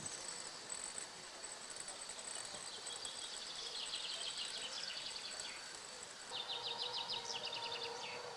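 Quiet outdoor ambience with no engine running: a faint steady high whine, and fast high chirping trills, one about two and a half seconds in and another about six seconds in. A faint steady hum joins near the second trill.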